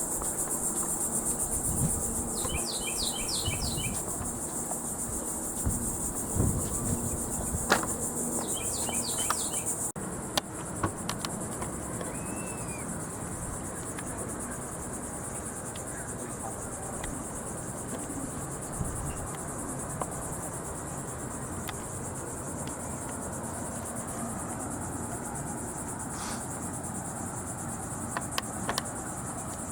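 Steady high-pitched buzzing chorus of insects, with a short run of rapid chirping notes twice in the first ten seconds. About ten seconds in the sound changes abruptly and the chorus carries on a little quieter.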